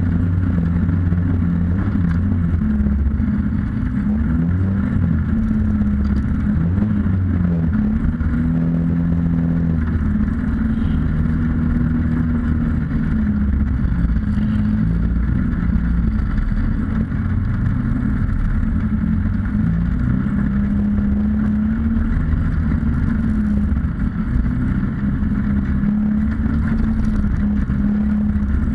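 Autocross race car's engine heard from inside the stripped cabin, driven hard, its revs climbing and dropping again and again through throttle lifts and gear changes.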